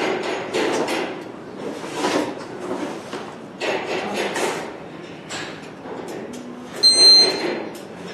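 Irregular knocks, scrapes and clatter from things being handled, with a short high-pitched beep about seven seconds in.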